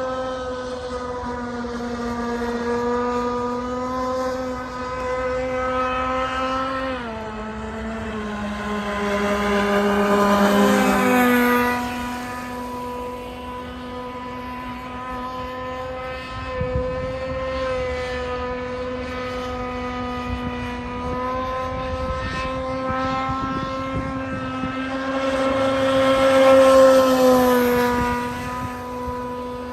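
Tiger King 26 open-port two-stroke model engine running at a high, steady buzz. Its pitch drops for a few seconds about seven seconds in, then climbs back. It grows loudest as it passes close, about ten and again about twenty-seven seconds in.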